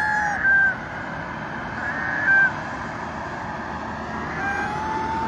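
Birds exchanging short, clear pitched calls, a few in a row, some sliding slightly in pitch, over steady background noise; calls of the kind taken for bonding calls between the pair.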